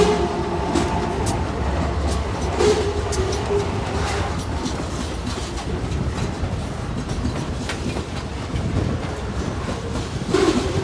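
Freight train wagons rolling past, a steady low rumble with scattered sharp clacks from the wheels on the rails.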